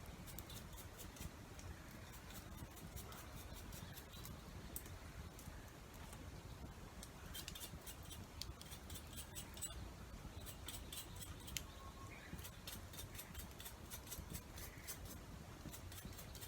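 Wood fire crackling: quiet, irregular sharp pops and ticks that come in quick clusters, over a low steady rumble.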